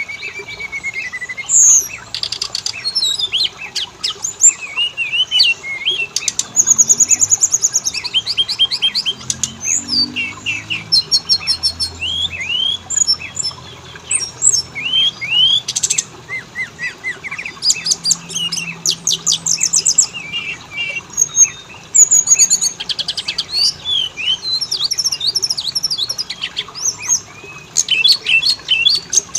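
Oriental magpie-robin (kacer) singing without a break: a fast, varied run of whistled notes, rapid trills and sharp chirps.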